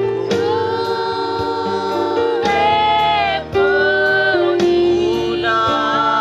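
Gospel music: voices singing a held, sustained melody over instrumental accompaniment.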